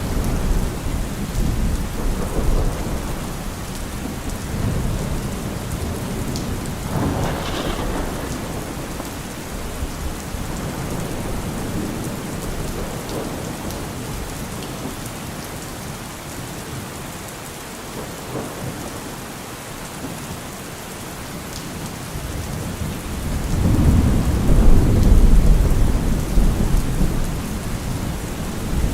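Heavy rain pattering steadily on a car roof, with rolling thunder underneath. The thunder builds into a loud, low rumble near the end.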